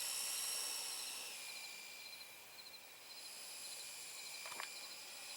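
Faint high-pitched whine of an electric RC glider's geared brushless motor (Turnigy 2854 through a 3.33:1 gearbox) swinging a 14x8 propeller as the plane climbs away under power; the whine is steady, its pitch dropping slightly about a second in.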